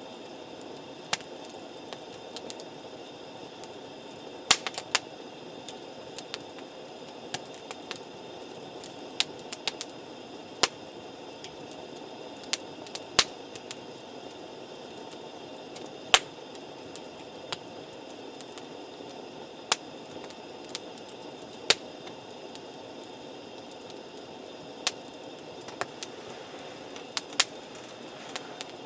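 Wood campfire burning with a steady low rush, punctuated by sharp pops and crackles at irregular moments.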